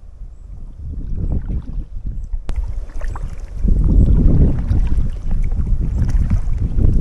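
Strong wind rumbling and buffeting on an action camera's microphone aboard a kayak, with light splashes of water. It starts faint, steps up after a sharp click about two and a half seconds in, and is loud and gusty for the rest.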